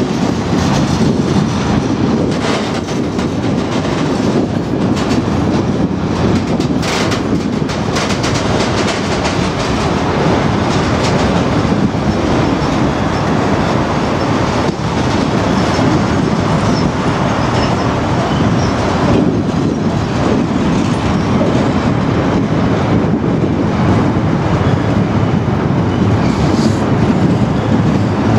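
Engineering freight train wagons rolling past close by: a steady loud rumble of wheels on rail, with a clickety-clack of wheels over rail joints.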